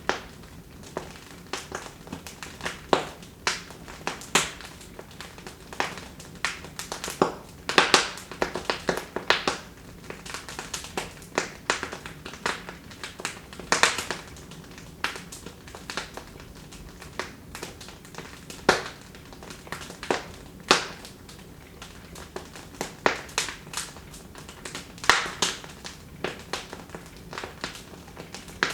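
Wood fire burning in a fireplace, crackling with irregular sharp pops and snaps, several a second, over a soft steady hiss.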